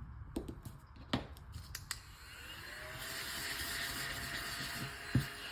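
A few light taps, then a small battery desk vacuum running for about three seconds with a smooth whirring hiss, followed by two thumps near the end.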